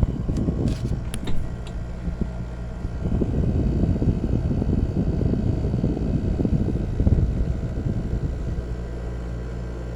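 Kenmore 5200 BTU window air conditioner running: a steady compressor hum under a fluctuating rush of fan air, with a few light clicks in the first second or so.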